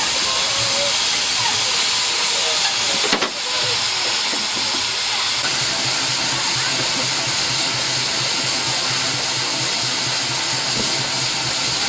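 Steam traction engine letting off steam: a loud, steady hiss, broken by one sharp click about three seconds in. From about four seconds a low, even pulsing runs underneath.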